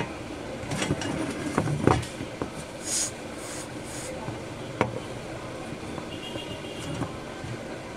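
Three short hisses of an aerosol contact-cleaner spray, the first and loudest about three seconds in, sprayed onto a stuck power-supply cooling fan. Scattered clicks and knocks of the fan and casing being handled.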